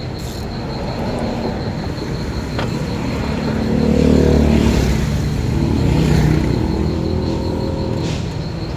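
A motor vehicle engine running; it grows louder around the middle, then eases off.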